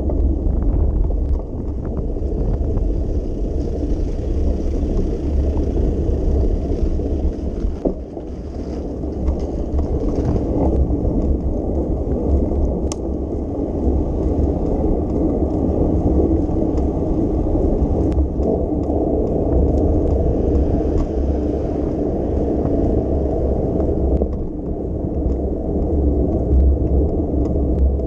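Bicycle in motion: tyres rolling on city pavement under a steady deep rumble of wind on the microphone, with a few faint clicks and rattles.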